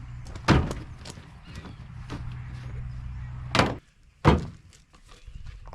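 Three sharp knocks or thuds, like a door or panel being shut, over a steady low hum that cuts off about three and a half seconds in.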